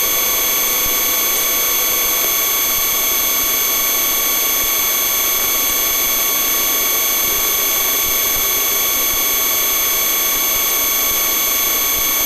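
Police helicopter's turbine and rotor running steadily, a constant drone with several fixed high-pitched whines, heard inside the airborne aircraft.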